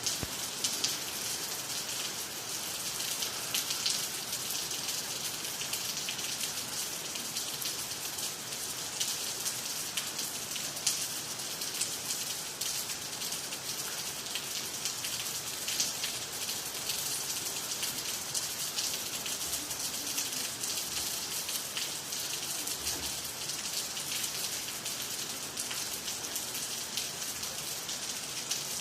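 Steady rain falling on water, trees and the ground: an even hiss of many drops with scattered close drop ticks.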